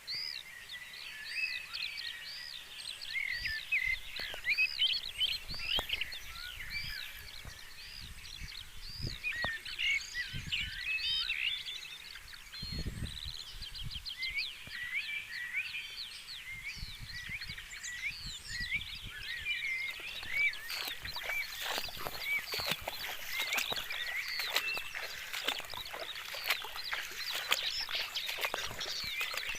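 A dense chorus of many short, high chirping calls overlapping without a break. From about two-thirds of the way through, many sharp clicks join in.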